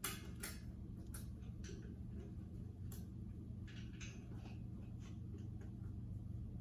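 Irregular light clicks and taps of hand tools on metal as a hose clamp on a tractor's coolant line is worked loose, over a steady low background hum.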